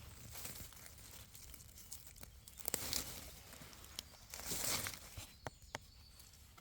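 Rustling and crackling of forest litter and undergrowth, with scattered sharp twig-like clicks and two louder rustles about three and four and a half seconds in.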